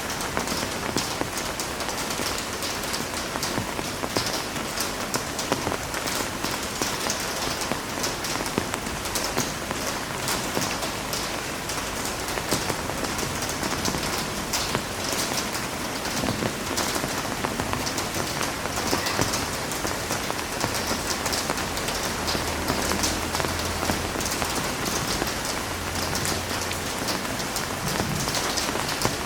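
Heavy rain falling steadily, a dense hiss with countless fine drop patters.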